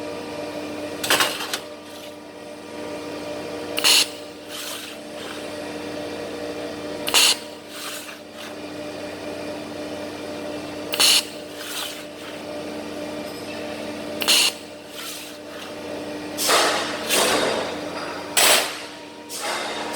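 Automated argon (TIG) welding rig running: a steady machine hum with a short, sharp hissing burst about every three seconds, coming closer together near the end.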